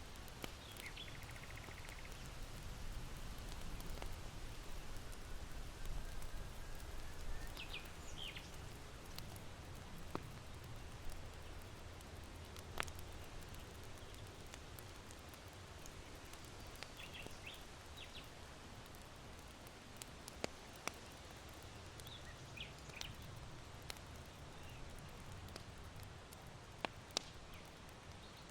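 Charcoal fire in an irori hearth giving a few sparse, sharp crackles over a soft, steady wind rumble, while small birds chirp faintly in short bursts several times.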